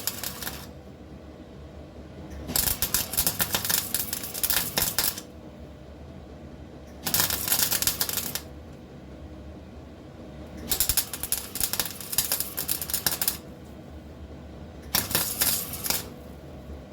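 Welding the seam of a car's outer sill panel to the inner sill: short runs of crackling, spitting welding, each a second to three seconds long, with pauses of about two seconds between them.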